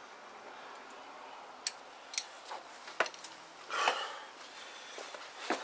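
Hand tools clinking and tapping on metal while working at a bolt on a scooter's exhaust mounting: a few separate sharp clicks, then a short scraping rustle about four seconds in.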